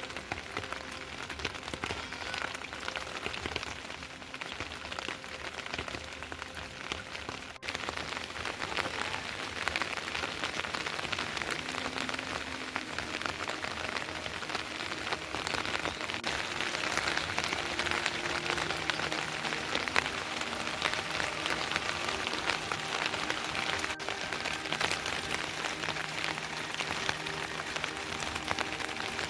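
Steady rain, with countless drops hitting a surface. It grows heavier after a brief break about eight seconds in.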